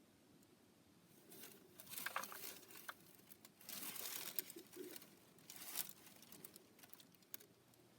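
Rustling, crinkling handling noises from a full handheld vacuum cleaner being opened or emptied, in several short bursts with a few small clicks. The motor is not running.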